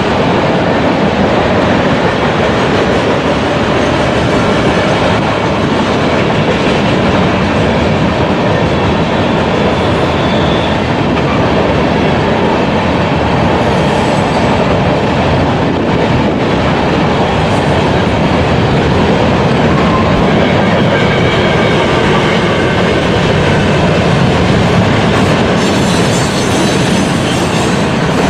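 Freight train passing close by, its wheels running loud and steady on the rails, with faint high squeals now and then.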